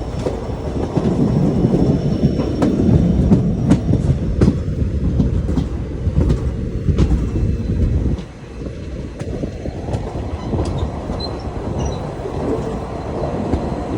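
Passenger train running on the rails, a steady rumble with wheels clicking over the rail joints. About eight seconds in the rumble suddenly drops to a quieter level.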